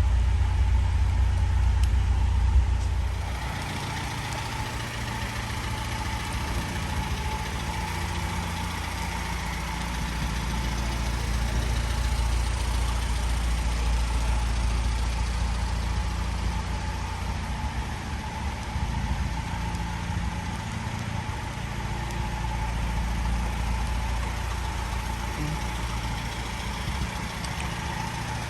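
Morris A60 camper's engine idling steadily, becoming quieter about three seconds in.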